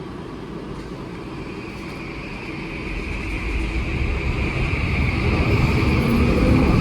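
SkyTrain Mark V train getting under way: a high whine from its linear induction motors sets in about a second in, joined by a rumble that grows steadily louder as the train picks up speed.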